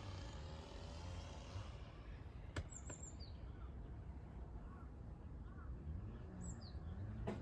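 Bird chirps: two short, high, falling calls a few seconds apart, and a few fainter ones, with two sharp clicks over a low steady hum. Background music fades out in the first two seconds.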